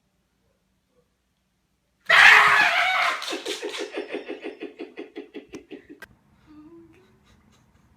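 A person laughing: a sudden loud outburst about two seconds in, then a quick run of ha-ha pulses, about six a second, that fade away over some three seconds.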